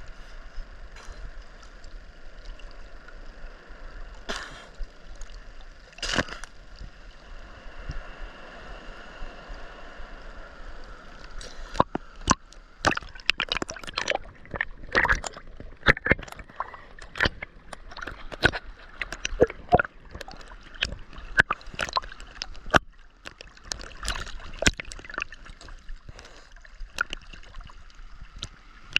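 Sea water sloshing and gurgling close to the microphone, with irregular sharp splashes that come thick and fast from about twelve seconds in.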